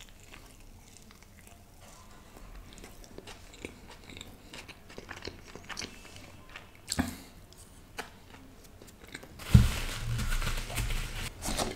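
Close-miked chewing of soft buttered pav bread with pav bhaji: quiet, wet mouth clicks and smacks. Near the end come a louder couple of seconds of breathy noise with a low hum.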